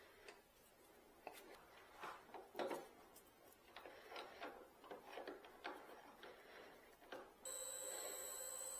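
A few faint knocks and clicks of a bowl blank being handled on a wood lathe, then about seven seconds in the lathe's motor switches on and runs with a steady whine.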